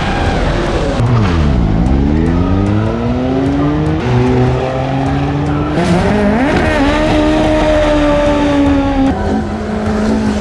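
Race car engine working hard through a slalom course: the revs fall to a low point about a second and a half in, then climb again, with gear changes about 4 and 6 seconds in and a drop in revs near the end.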